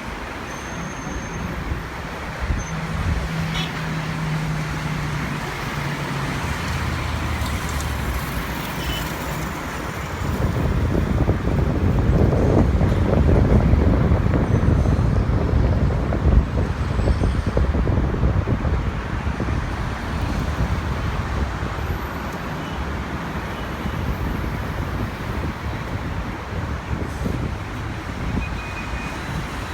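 Steady engine rumble with a low hum early on, swelling to its loudest about twelve to sixteen seconds in and then easing back to a steady level.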